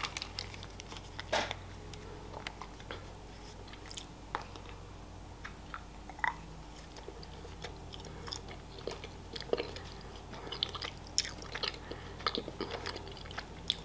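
Close-up eating of a Kinder Surprise egg's milk-chocolate shell: chewing and biting, with scattered short clicks and crackles.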